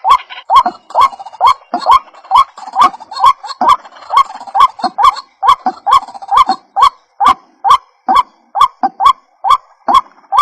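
White-breasted waterhen calling over and over: a short, rising croaking note repeated about twice a second without a break.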